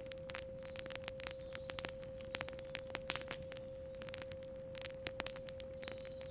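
Campfire crackling with frequent short pops, over a steady pure 528 Hz tone.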